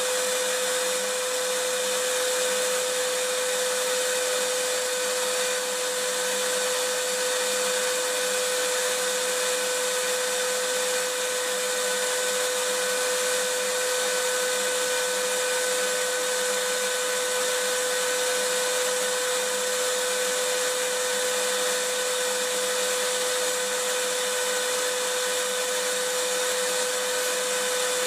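Vacuum cleaner running steadily: an even rushing hiss with a steady whine laid over it, unchanging in pitch and level.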